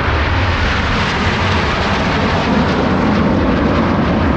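Aermacchi MB-339 jet trainers of an aerobatic formation passing, their turbojet engines making loud, steady jet noise.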